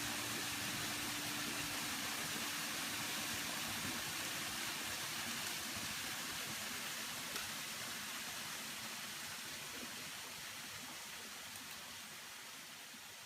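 Waterfall's steady rush of falling water, slowly fading out over the second half.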